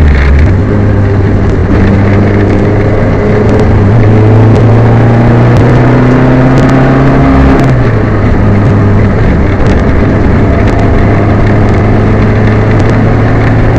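Peugeot 205 rally car's engine heard from inside the car, running hard at high revs. The engine note drops just before eight seconds in, then holds again. The car has a misfire.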